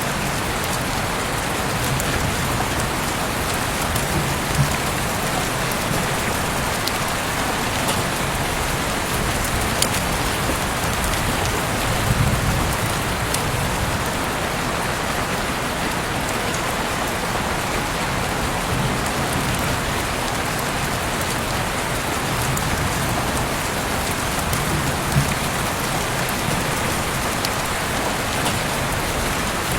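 Steady heavy rain falling, an even hiss with a few louder drops or splashes standing out now and then.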